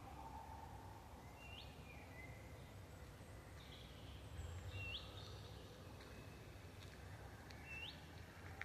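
Faint forest birdsong: a bird gives a short, sharply rising note three times, about three seconds apart, with fainter bird calls around it over a low steady rumble.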